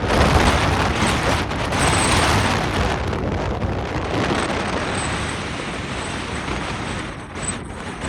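Strong, gusting wind buffeting the microphone: a loud rushing roar with a heavy low rumble, easing slightly near the end.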